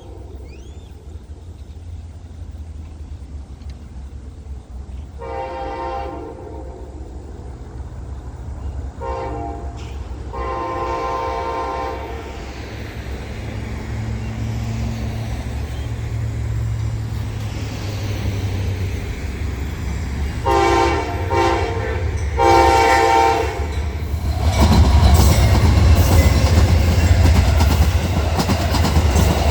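Diesel locomotive horn sounding as the train approaches: a long blast, a short one, a long one, then two more long blasts, each a chord of several tones, over a low engine rumble that grows steadily louder. Near the end the train passes close, with loud rumbling and the clickety-clack of wheels over rail joints.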